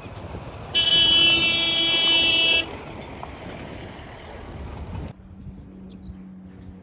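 A horn sounds once, a steady, loud blast about two seconds long that starts and stops sharply. It is heard over a background rumble that cuts off suddenly about five seconds in, leaving a faint steady hum.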